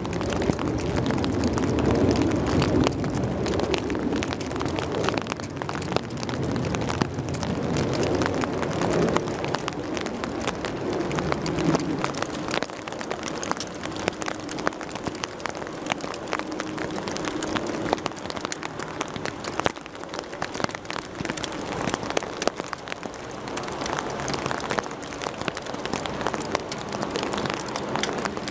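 A jet airliner's engines rumble as it passes on its landing approach, loudest in the first ten seconds or so and then dying away. Rain falls throughout, with many small ticks of drops hitting a nearby surface.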